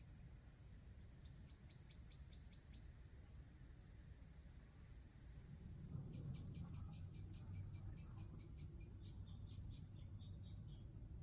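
Faint forest ambience: a steady high insect drone, with two runs of quick, evenly spaced chirps, about four a second. The first run is brief and the second starts about halfway through and goes on for several seconds.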